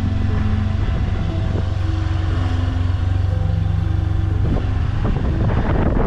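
Motorbike engine running steadily while riding along a road, with knocks and rattles from bumps in the second half.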